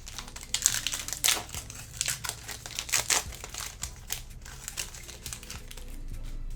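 A sports card pack's wrapper being torn open and crinkled in the hands: a run of sharp crackles, busiest in the first half and thinning out towards the end.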